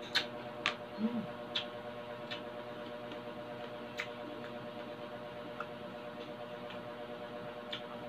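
Mouth-closed chewing of crispy fried pork belly. Sharp crunching clicks come several times in the first two seconds, then only now and then.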